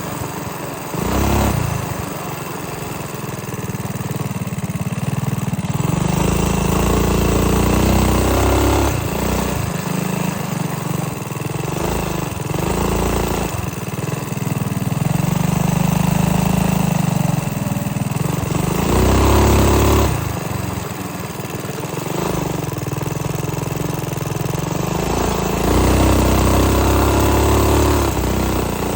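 Mini bike's small single-cylinder engine running as it is ridden, the throttle opening and easing off repeatedly so the engine note rises and falls several times.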